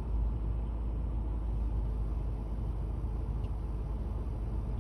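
Fire department ladder truck's engine running steadily, a low rumble.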